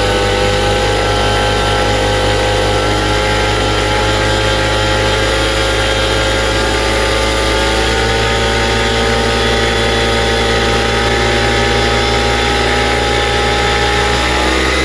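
Vittorazi Atom 80 single-cylinder two-stroke paramotor engine with a tuned expansion-chamber exhaust, running with its propeller at a steady, held throttle. The pitch drops right at the end as the throttle comes off.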